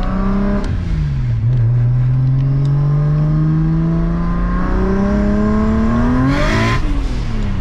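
BMW 335i's turbocharged straight-six under hard acceleration, heard from inside the cabin. The engine note falls about a second in at a gear change, then rises steadily through the next gear as boost builds. About six and a half seconds in there is a short, loud whoosh at the upshift as the revs drop.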